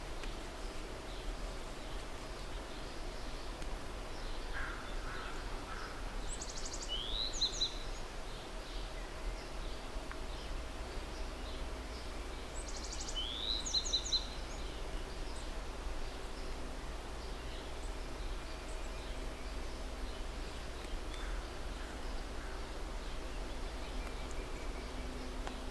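A songbird singing two short phrases about six seconds apart, each a quick high trill followed by a rising whistle, over steady low outdoor background noise.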